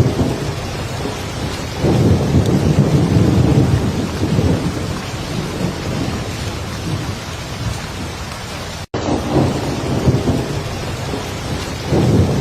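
Heavy rain falling steadily, with thunder rumbling in low about two seconds in and swelling again near the end. About nine seconds in there is a split-second drop-out of all sound.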